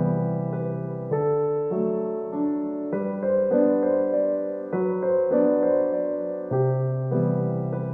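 Background music: a gentle solo piano piece, chords and melody notes changing every half second or so.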